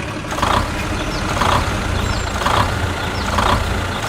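Cartoon construction-vehicle engine sound effect running steadily, with a repeating accent about once a second.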